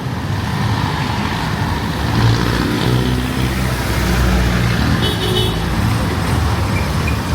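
Street traffic: a motor vehicle's engine running close by with a steady low hum, over an even hiss. A brief high-pitched tone sounds about five seconds in.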